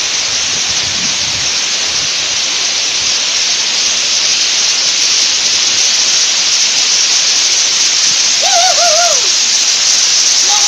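Steady loud rush of a waterfall. Near the end a short warbling call rises above it.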